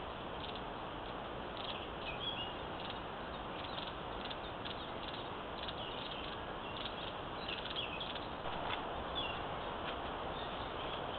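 Small birds chirping in short scattered calls over a steady hiss.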